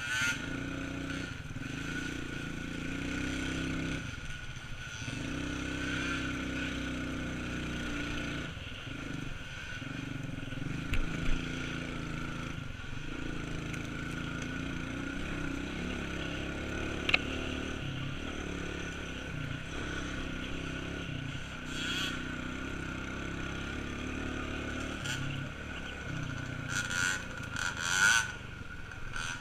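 Small off-road vehicle engine running at a steady pitch, with a couple of brief sharp knocks midway.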